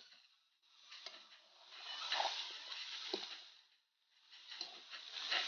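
Meat frying in a metal wok, sizzling, with a few scrapes and knocks of a spatula stirring it. The sound drops out briefly twice, near the start and about four seconds in.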